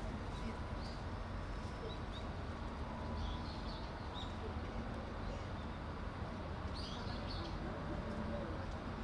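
Small birds chirping in short scattered calls, a few times, over a steady low outdoor rumble.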